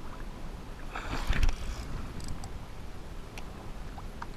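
Wind and water noise on a fishing kayak at sea, a steady low rumble with a louder rush about a second in and a few faint clicks.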